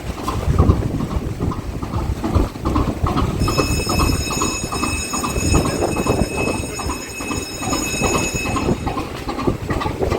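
Steam engine of the 1939 steamship Voorwaarts running with a rapid, rhythmic chuffing beat. A steady high-pitched tone sounds over it from about a third of the way in until near the end.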